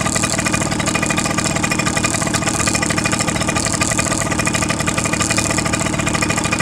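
Small motorcycle engine idling steadily, its firing pulses even and unchanging.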